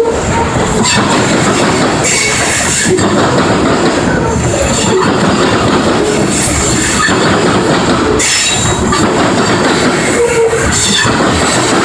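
Covered hopper cars of a Union Pacific grain train rolling past close by, steel wheels rumbling and clacking steadily over the rails, with a high-pitched wheel squeal on the curve that swells every couple of seconds.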